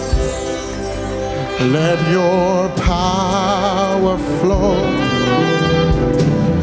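Live gospel worship music: voices hold long notes with vibrato over keyboard and band backing with a steady beat.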